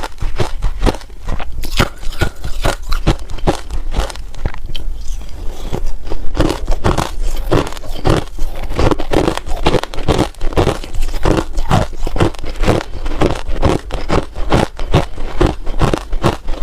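A person biting and chewing ice close up, a steady run of sharp crunches about three to four a second.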